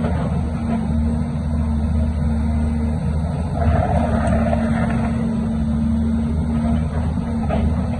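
Heavy diesel engine of earth-moving machinery running steadily, growing rougher and a little louder for about a second from just under four seconds in.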